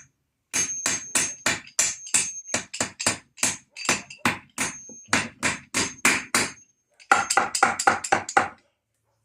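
Hammer driving U-nails (fence staples) into the raised-bed frame: steady blows about three a second with a light metallic ring, a brief pause, then a quicker flurry of blows near the end.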